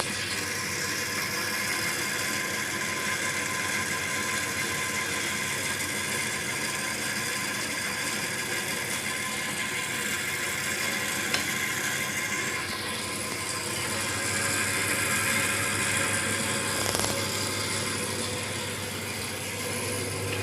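Small motors and gearing of a miniature automatic sawmill running with a steady mechanical whir over a low hum, with a single click about halfway through.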